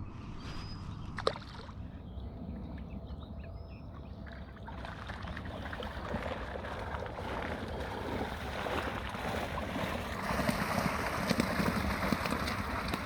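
Water sloshing and splashing, getting louder from about five seconds in, with one sharp click about a second in.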